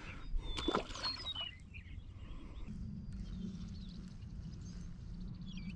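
Small birds chirping in short high calls, with one sharp knock about a second in and a steady low hum setting in about halfway through.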